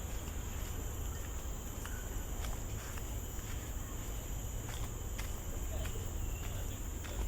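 Insects droning steadily in a high, even tone, over a low rumble, with scattered faint clicks.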